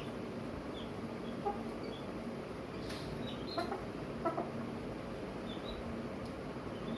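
Chickens clucking, with scattered short high peeps and a couple of louder clucks about three and a half and four seconds in, over a steady low background noise.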